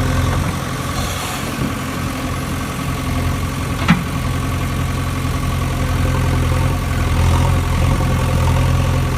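Steady idling engine sound, with a single sharp click about four seconds in.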